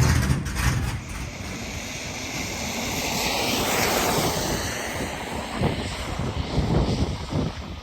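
Rushing road and wind noise from a moving vehicle. It swells to a peak about four seconds in and then fades.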